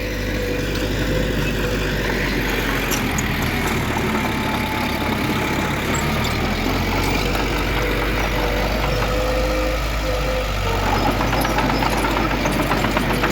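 Heavy diesel engine of earthmoving machinery running steadily, with a faint whine on and off.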